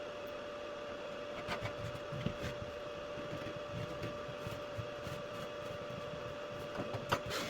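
Light scraping and a few faint clicks from a scratch awl tracing a line around a drain set on a shower pan, over a steady background hum with a constant tone.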